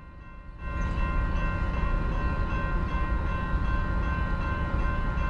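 Freight train passing close by: a steady low rumble sets in about a second in, with a steady high ringing tone held over it.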